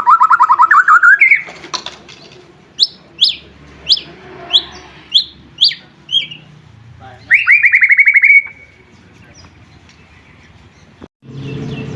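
White-rumped shama (murai batu) singing: a fast rising trill, then a run of about eight sharp downslurred whistles, about two a second, and a second fast trill. A low hum comes in near the end.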